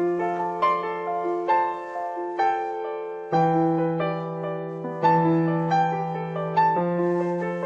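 Background piano music: a gentle melody of struck notes over sustained bass notes.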